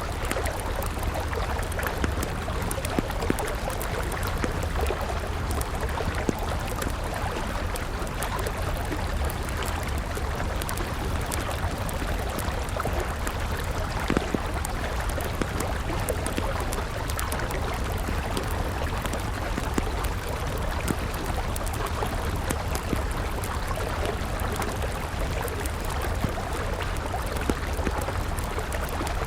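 River water running steadily, with a wood fire crackling over it in scattered sharp pops, one louder pop about halfway through.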